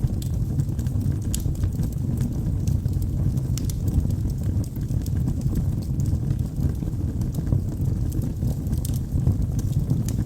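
Wood logs burning in a fireplace: a steady low rumble of the flames with scattered sharp crackles and pops.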